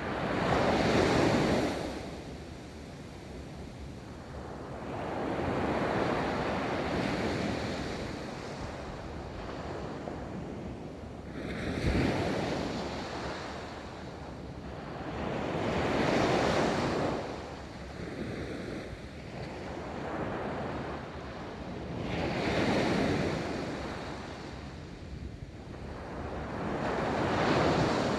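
Ocean surf: waves breaking and washing up a beach, one swell every five or six seconds, with a short sharper thump about twelve seconds in.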